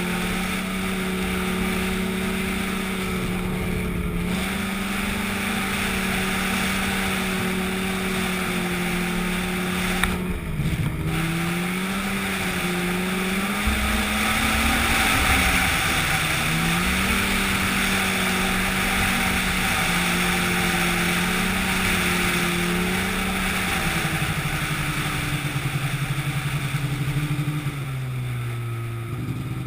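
An engine running at a steady speed, with a rushing noise over it. Its pitch dips and recovers about ten seconds in, drops to a lower speed a little past twenty seconds, and falls further at the very end.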